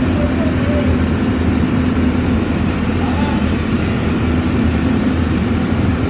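A motor running steadily at an even speed, with a constant low hum.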